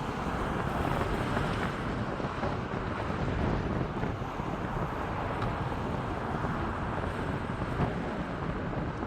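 Steady wind rumbling on the microphone, an even noise with no distinct events.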